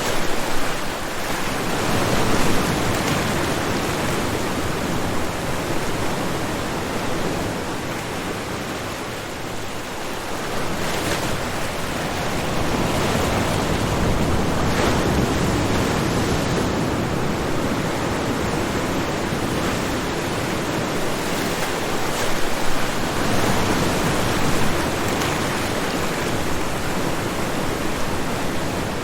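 Ocean waves breaking on a shore: a continuous wash of surf that swells and eases every several seconds.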